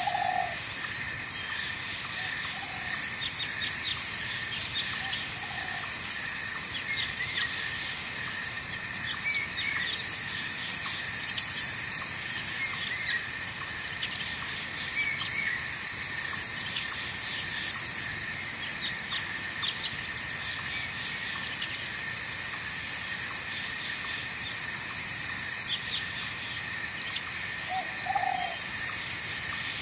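Night forest ambience: a steady chorus of insects with a higher trilling that comes and goes every few seconds, a few short hooting calls near the start and again near the end, and faint bird chirps through the middle.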